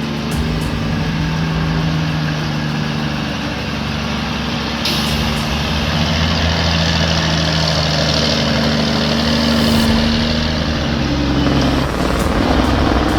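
Heavy logging truck's diesel engine running steadily under load. A high hiss of air starts suddenly about five seconds in and cuts off about five seconds later.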